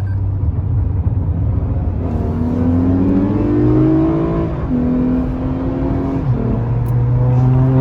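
Car engine accelerating hard under heavy throttle, climbing in pitch and then dropping twice as the gearbox shifts up.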